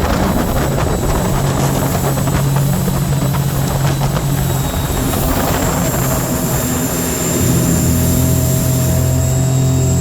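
Rotax 1503 4-TEC three-cylinder engine of a Scarab 165 ID jet boat running under way, with a steady drone and water and wind noise. About seven seconds in it gets slightly louder and its note changes.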